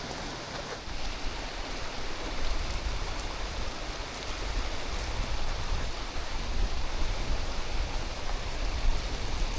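Steady rushing water of a waterfall, with a low rumble of wind on the microphone.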